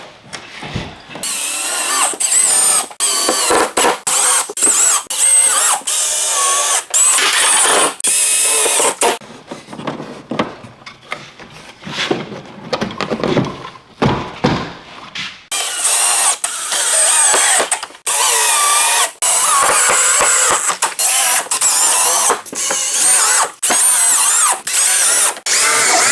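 Handheld power tool run in repeated bursts a second or two long, stopping and starting, with a high whine. There is a quieter spell midway.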